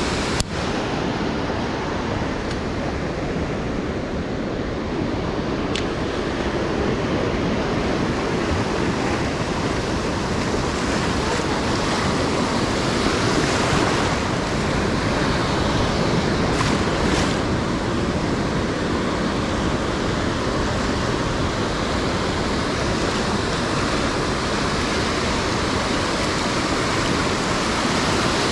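Ocean surf breaking and washing up the beach in a steady rush, with some wind on the microphone. A short sharp click sounds just after the start.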